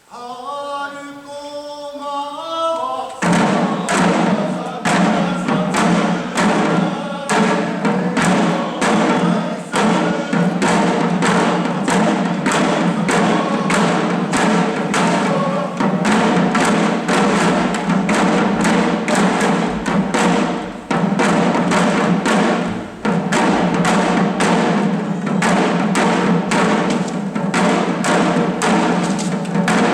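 Shishi-odori deer dancers singing a short chanted phrase, then from about three seconds in beating the drums worn on their bodies in a steady, driving rhythm while the singing carries on.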